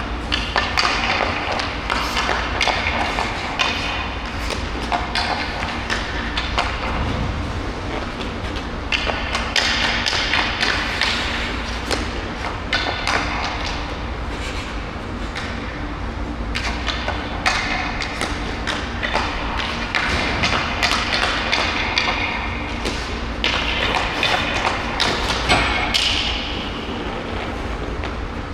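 Hockey stick blade and puck knocking on ice in stickhandling: irregular thuds and taps, closely spaced, over a steady low rumble and scraping hiss.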